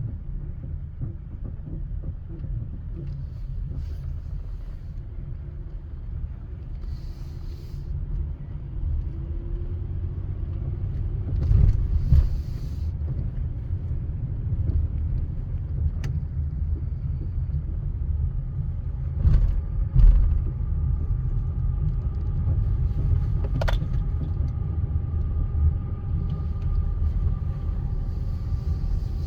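Honda Odyssey minivan on the move, with a steady low rumble of road and running noise and a few brief knocks. From about two-thirds of the way in, a faint steady whine joins it.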